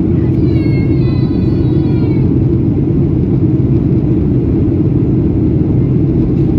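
Steady low roar of a Boeing 737-800's CFM56-7B engines and airflow, heard inside the passenger cabin in flight. A brief high-pitched sound rises over it in the first two seconds.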